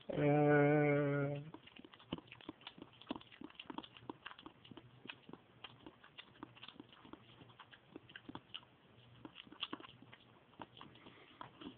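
A person eating dog food straight from a bowl with the mouth, like a dog: many faint, irregular wet smacking and chewing clicks. It begins with a voice held on one slightly wavering note for about a second and a half.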